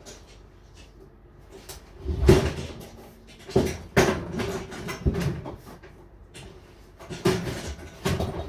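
A run of irregular knocks and clattering bangs, about six of them. The loudest come about two seconds in and around four seconds in, with two more near the end.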